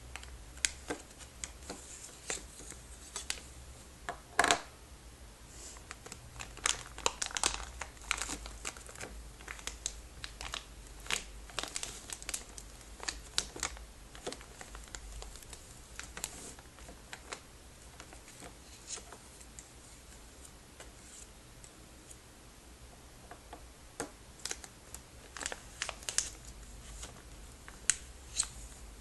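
A crinkly plastic bag being handled and squeezed, crackling irregularly, with curtain rings inside it clicking together. It thins out for a few seconds in the middle, then picks up again near the end.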